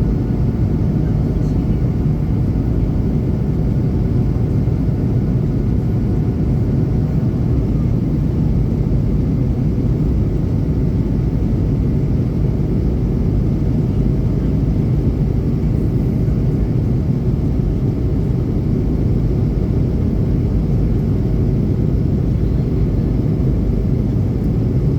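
Airplane engines and airflow running at a constant power, a loud, unbroken low rumble heard from inside the cabin, with a few faint steady tones above it.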